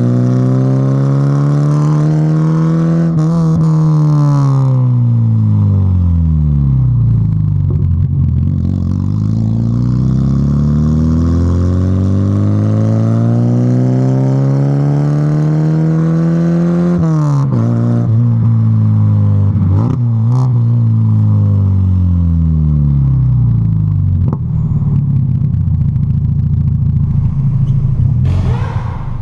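Volkswagen Golf Mk3 engine through a straight-through exhaust, with the catalytic converter and intermediate muffler removed and a sport rear muffler fitted, heard while driving. The engine note climbs under acceleration and falls away on lift-off several times, with one long climb through the middle that drops suddenly about 17 seconds in.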